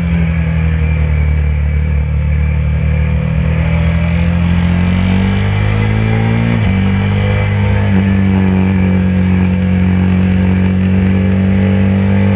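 KTM RC 390's single-cylinder engine pulling hard under acceleration, heard onboard with wind rush. The pitch climbs, drops sharply on an upshift a little past halfway, steps again shortly after, then holds steady.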